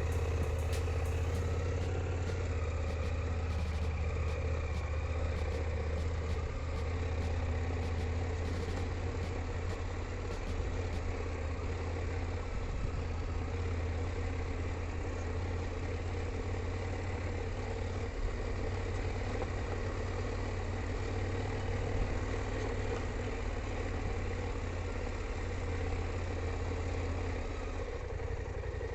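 KTM 890 Adventure's parallel-twin engine running at a steady pace, its low drone holding level throughout.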